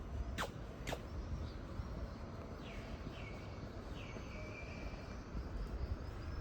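Outdoor street ambience: a bird calls with several short falling chirps over a low steady rumble, with two sharp knocks about half a second apart near the start.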